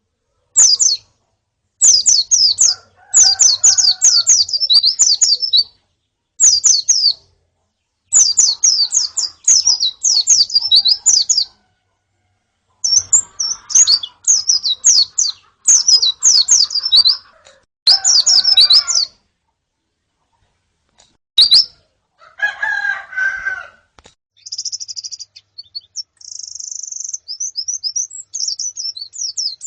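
Pleci (white-eyes) chirping in quick bouts of short, high-pitched descending notes, broken by sudden silent gaps between bouts. About three quarters of the way through comes a lower-pitched chattering call, and near the end a faster run of chirps.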